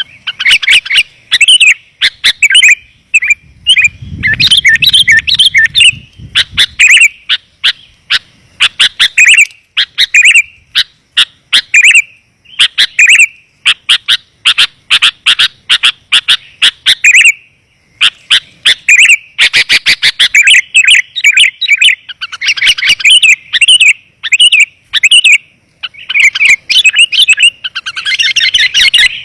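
Sooty-headed bulbuls (kutilang) chirping in dense, rapid runs of short, bright notes with brief pauses between the runs. This is a bulbul lure call, used to draw wild bulbuls in.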